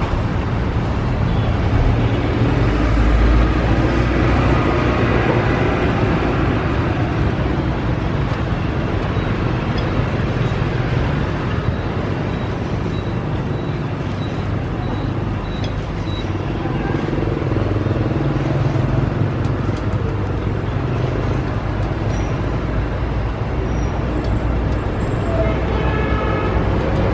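Steady road traffic noise, motorbikes and cars running by with a low rumble that rises and falls.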